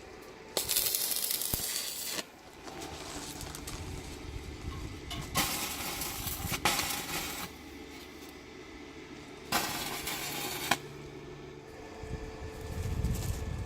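Electric arc welding: three bursts of steady crackling sizzle, each lasting a second or two, as welds are laid on the steel, with a low hum underneath between them.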